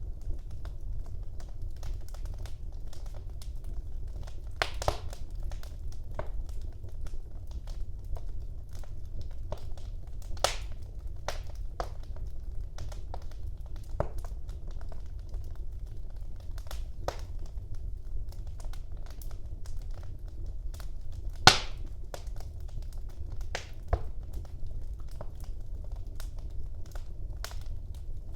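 Wood fire burning in a fireplace: irregular sharp crackles and pops over a steady low rumble, with one loud pop about three quarters of the way through.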